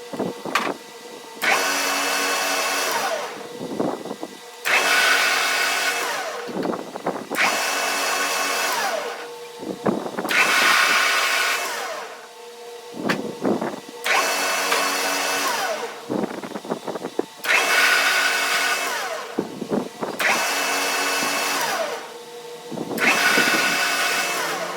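A power tool run in about eight short bursts, each around two seconds long, roughly every three seconds. Each burst starts abruptly and ends with a falling whine as the tool slows.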